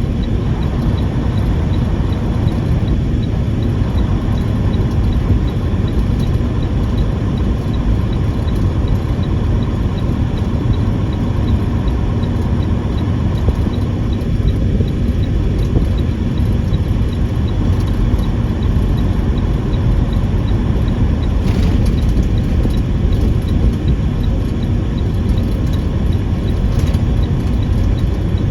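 Semi-truck engine and road noise while driving: a steady low rumble.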